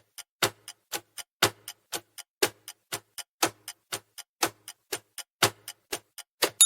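Ticking-clock countdown sound effect, a steady tick-tock of about four sharp ticks a second, alternating louder and softer.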